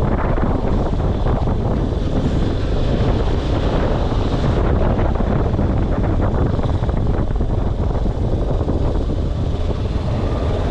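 Steady wind noise buffeting the microphone, a loud, even rumble with no distinct events.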